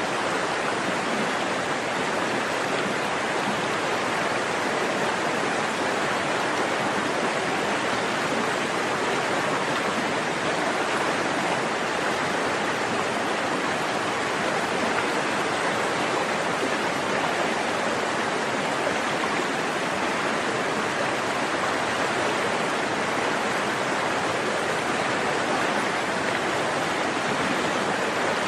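Forest stream flowing steadily, a continuous rush of running water.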